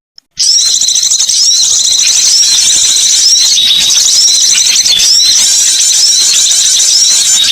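Loud, dense, high-pitched chirping and twittering of small birds, a recorded bird-luring call, with notes rising and falling over and over. It starts after a brief silent gap at the very beginning.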